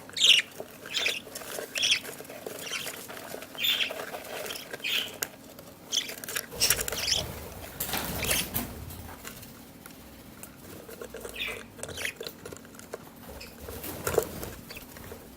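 Month-old budgerigar chicks chirping in short, irregular high cheeps, with rustling and scuffling as they move about.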